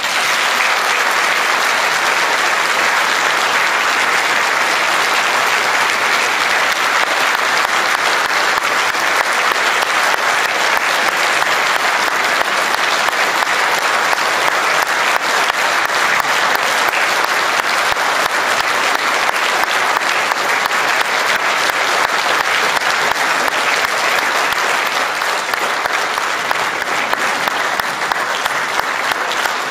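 Concert audience applauding steadily at the close of an aria with orchestra, a dense even clapping that does not let up.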